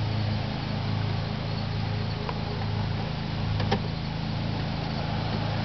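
A stock 4.3-litre V6 running steadily at idle, with a light click about three and a half seconds in.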